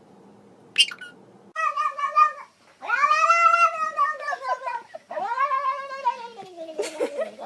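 A domestic cat yowling: after a sharp click, a short call, then two long drawn-out yowls that rise and then fall in pitch, the last sliding down into a low wail.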